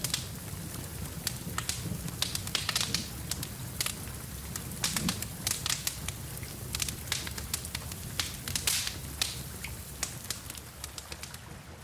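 Wood fire crackling in a fireplace: frequent sharp pops and snaps over a low steady rumble. The pops thin out near the end.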